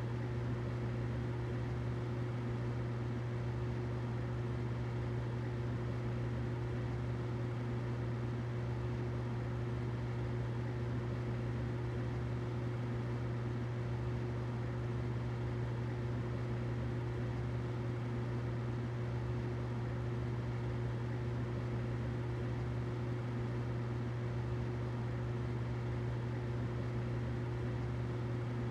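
Humidifier running: a steady, unchanging low hum with a fainter higher tone and a soft hiss above it.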